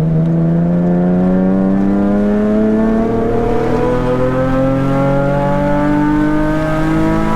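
Nissan 370Z Nismo's V6 engine pulling under throttle, its pitch climbing steadily and without a break as the revs rise through one long gear.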